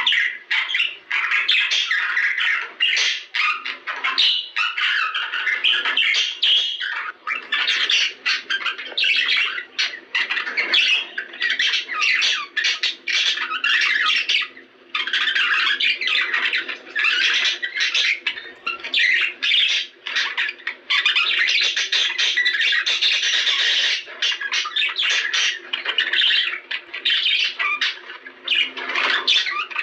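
Budgerigars chattering continuously, a fast run of squawks, chirps and warbles with only brief pauses.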